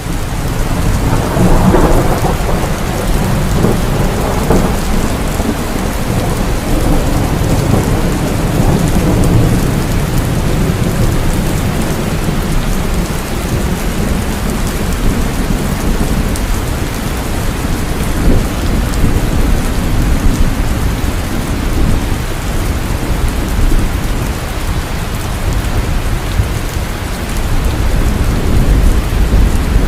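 Heavy rain falling steadily with rolling thunder rumbling through it. The thunder swells about a second in and again near the end.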